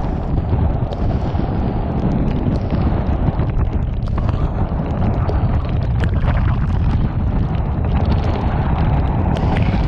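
Typhoon-strength wind buffeting the microphone: a loud, continuous low rumble that surges and buffets, with scattered sharp ticks throughout.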